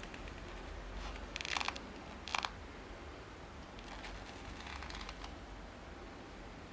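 Handling noise: short rustling, scraping sounds, two sharper ones about a second and a half and two and a half seconds in and fainter ones later, over a low steady hum.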